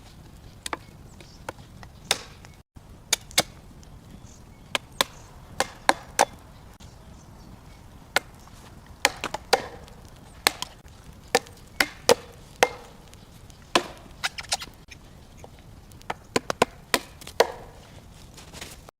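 Wood being chopped by hand: a run of sharp, irregular strikes, some in quick pairs, with short pauses between.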